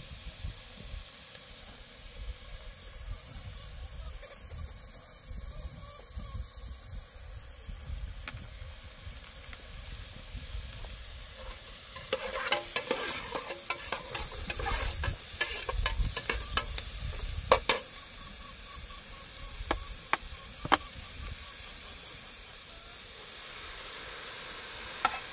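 Chopped food frying with a steady sizzle in a metal pot on a small portable stove, while a ladle stirs and scrapes against the pot. The scraping and knocks come thicker about halfway through.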